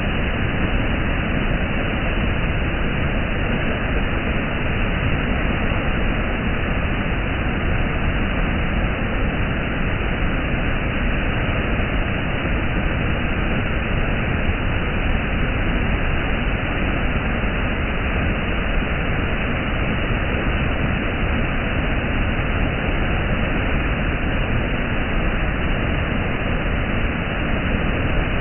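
Waterfall, a steady, even rush of falling water with no breaks.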